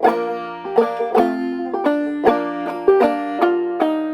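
Five-string banjo in G minor tuning played clawhammer style: a slow, even run of about a dozen plucked notes and brushed strums, each ringing and decaying into the next.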